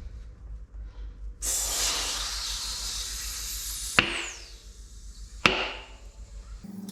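A 16-gram CO2 cartridge emptying through its inflator into a tubeless bicycle tyre with a loud rushing hiss, cut off by a sharp pop, then a second sharp pop about a second and a half later, as the tyre bead snaps into place on the rim.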